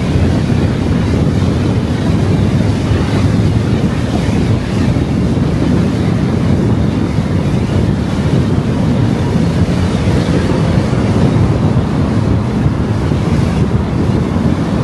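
Steady rushing noise of a car driving along a road, tyre and wind noise without change.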